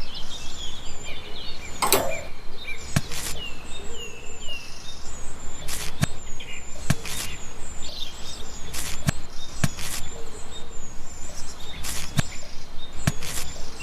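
Birds chirping over a steady outdoor hiss, with sharp knocks or taps every second or two, often two in quick succession.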